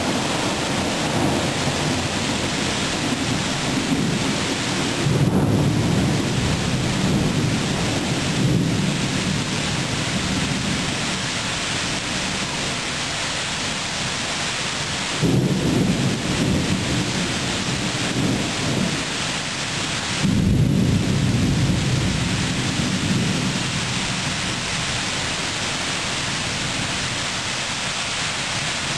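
Thunderstorm: steady heavy rain with rolling thunder, low rumbles swelling up three times, about five, fifteen and twenty seconds in.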